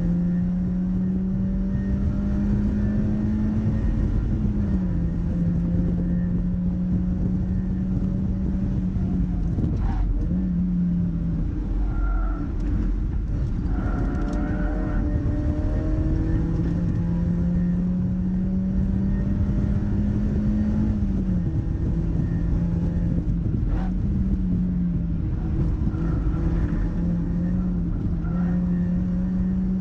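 Mazda MX-5's four-cylinder engine driven hard on track, its pitch climbing steadily and then dropping sharply several times, over a steady low rumble of road noise.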